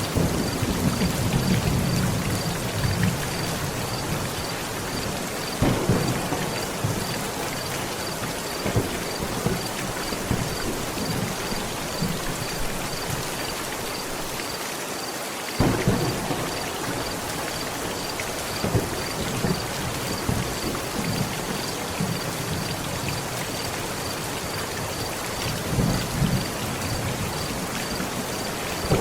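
Heavy rain falling steadily on a tent, with rolls of thunder: a long rumble at the start, another about six seconds in, a sudden sharper crack a little past halfway, and a further roll near the end.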